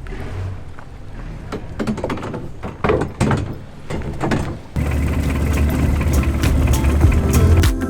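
Boat engine running, with irregular knocks and splashes over a low hum, growing suddenly much louder about five seconds in.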